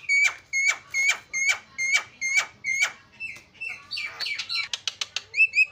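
Javan myna singing: a run of about seven sharp, repeated whistled notes at roughly two a second, breaking into a varied chatter and then a quick string of short notes near the end.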